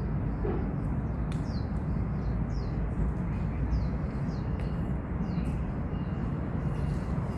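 A small bird repeats a short, high, falling chirp roughly once a second over a steady low rumble of distant city traffic.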